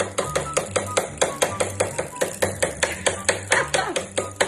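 Rapid, even tapping of something hard on a hard surface, about five strikes a second.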